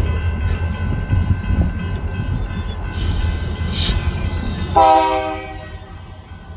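A train rumbling past, with a short horn blast about five seconds in. The rumble fades off toward the end.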